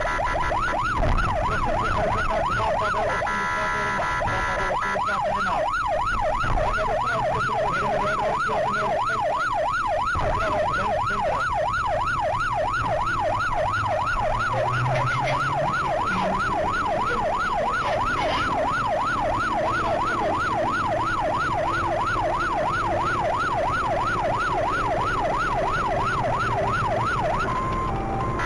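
Police car siren in a fast yelp, the pitch rising and falling about three times a second over steady road and engine noise, briefly joined by a steady tone a few seconds in, and stopping near the end.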